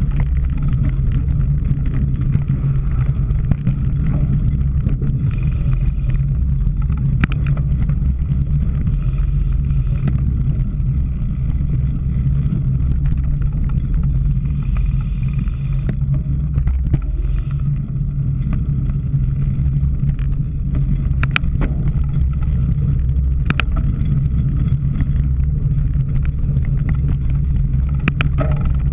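Riding noise on a camera carried on a cyclocross bike: a steady low rumble of wind and rolling, with scattered sharp clicks and knocks.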